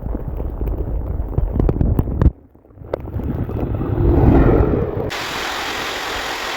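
Rumble of a passing train with wind buffeting the microphone, broken by abrupt cuts; from about five seconds in, a steady hiss of heavy rain.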